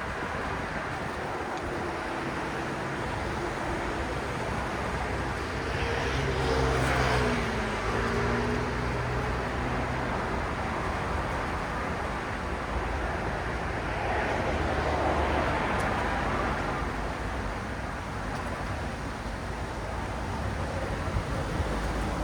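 City road traffic: a steady wash of engine and tyre noise, with one vehicle swelling past about a quarter of the way in, its engine note gliding, and another passing around two-thirds in.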